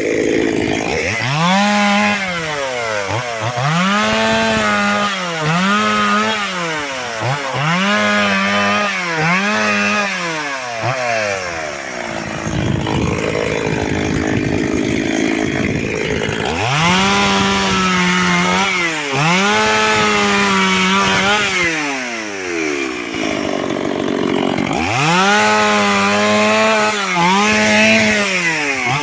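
Chainsaw cutting firewood logs, its engine revving up to full speed for each short cut and dropping back between them, over and over, with a few seconds of lower running near the middle.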